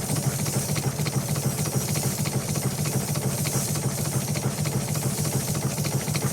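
An engine running steadily, with a fast, even pulse and a hiss over it.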